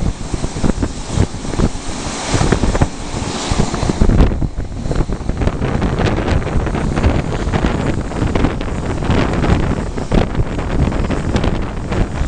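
Passenger train running: wind buffets the microphone over a steady low rumble and frequent rattling of the wheels and carriage on the track.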